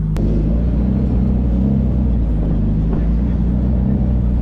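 Car engine running at low speed, heard from inside the cabin while driving slowly in traffic, with one sharp click just after the start.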